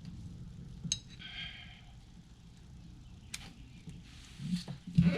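Steel hand tools, a breaker bar and socket, clinking as they are handled: a sharp metallic clink about a second in that rings briefly, and another sharp click a little past the middle.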